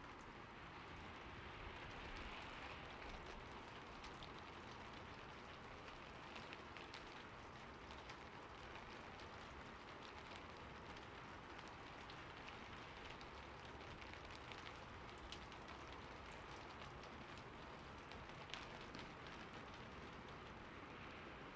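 Steady rain falling on a roof: a soft, even hiss with scattered sharp drop ticks.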